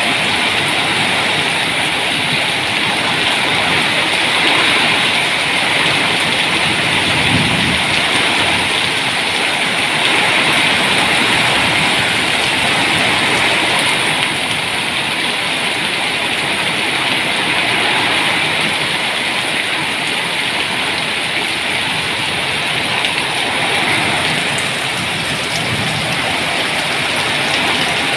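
Storm rain falling steadily, an even, unbroken hiss of pouring rain.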